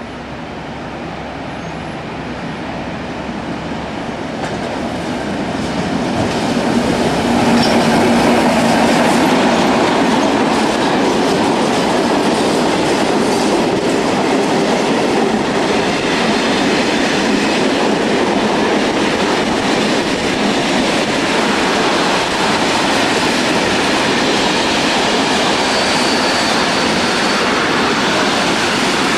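A diesel-hauled freight train approaches and passes close by. The locomotive grows louder over the first seven seconds or so, then a long string of freight wagons rolls past with steady rail noise and wheel clatter, and a brief high wheel squeal comes near the end.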